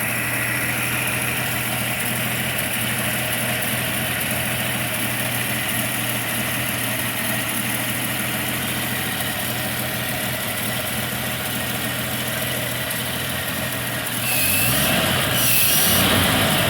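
Truck engine idling steadily during an engine test, then briefly rising in revs and getting louder for about two seconds near the end.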